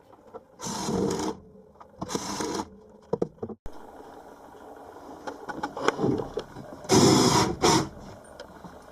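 A hand-held power tool run in short spurts: twice in the first few seconds, then a louder run about seven seconds in.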